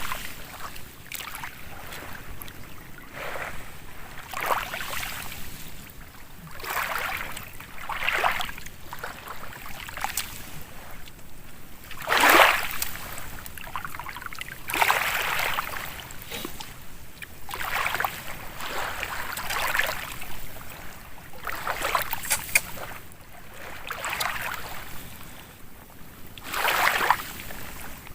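Water sloshing and splashing in repeated surges, about one every one to two seconds, the loudest about twelve seconds in.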